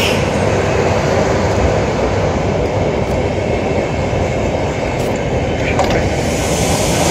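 Steady rushing hum of a stationary double-decker sleeper train standing at the platform, from its carriage equipment running, with a few faint clicks.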